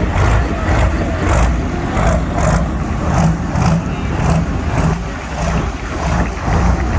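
Engine of a pulling tractor running loud, with a regular pulse about twice a second.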